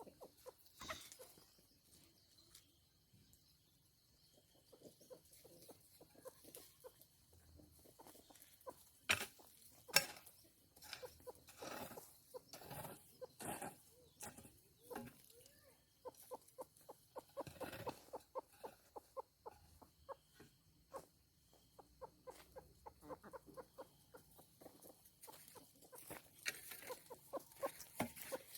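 Chickens clucking in quick runs of short calls, with a couple of sharp knocks about nine and ten seconds in.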